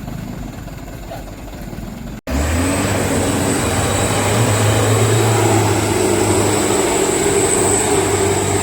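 Diesel engine of a heavily loaded Mitsubishi Canter truck running. About two seconds in the sound breaks off and resumes louder, running steadily with a high whine above it.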